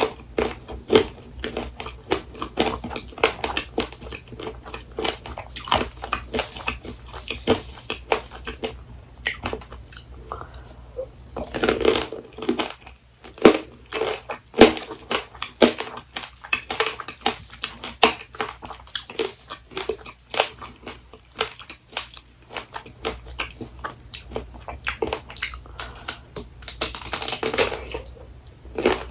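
Close-up biting and chewing of apricot tanghulu, its hard sugar-candy shell cracking in many irregular sharp crunches. There is a louder burst of bites about twelve seconds in and another near the end.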